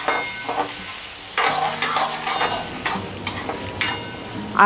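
Potato chunks frying in oil in a metal kadhai over a medium flame: a steady sizzle with a utensil scraping and stirring against the pan in repeated strokes.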